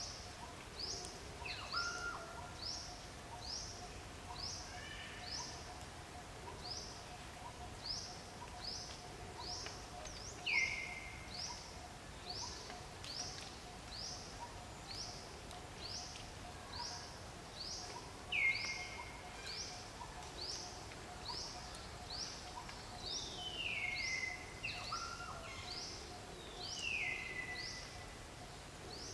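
Forest birds calling: one bird repeats a short, high, downward-slurred note about twice a second, while another gives a few louder whistles that slide down in pitch, over a faint steady hum.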